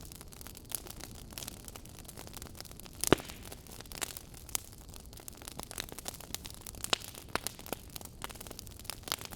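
Wood fire in a fireplace crackling, with irregular sharp pops, the loudest about three seconds in, over a steady low rumble.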